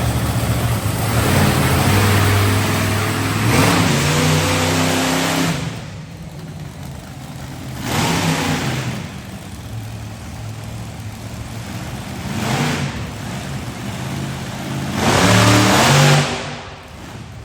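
Monster truck engine revving hard in repeated bursts between quieter running: a long burst at the start, two shorter ones midway, and the loudest one near the end.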